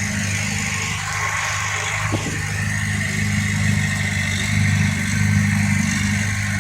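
Heavy-equipment diesel engine running steadily, with one sharp knock about two seconds in.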